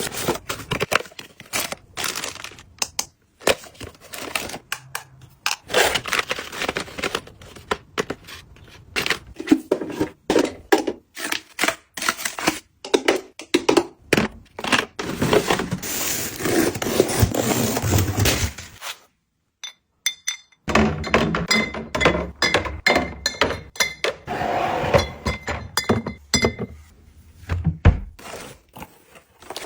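Packaging being handled and opened: a quick, irregular run of knocks, thunks and cracks with crinkling between them, broken by about two seconds of near silence two-thirds of the way through.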